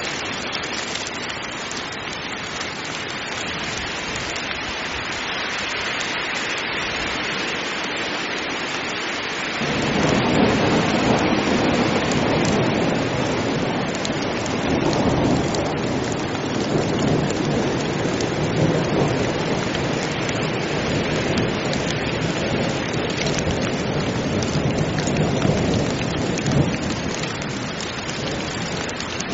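Heavy rain falling steadily in a thunderstorm. About a third of the way in, a long, deep rumble of thunder rolls in over the rain and fades away near the end.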